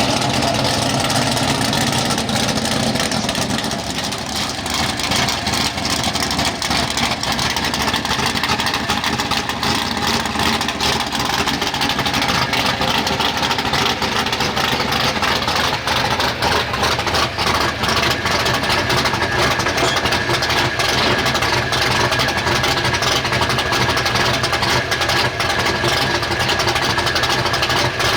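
A modified 4x4 pulling truck's engine running loudly and steadily, with a thin high whine that comes in about two-thirds of the way through.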